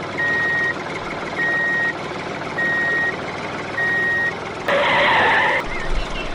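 A vehicle's reversing alarm beeping four times at one steady pitch, evenly spaced about a second apart, over a continuous running noise, followed near the end by a brief louder rush of noise.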